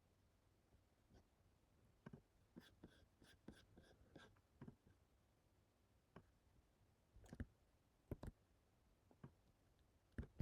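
Faint, scattered clicks of a computer mouse and keyboard keys, a quick run of them about two to three seconds in and a few more near the end, over near silence.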